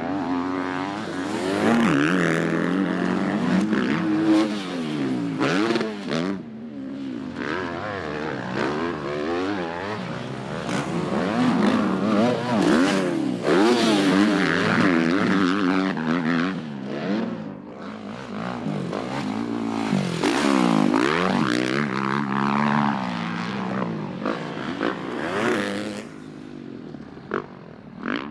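Dirt bike engine revving up and down over and over, as on a motocross track.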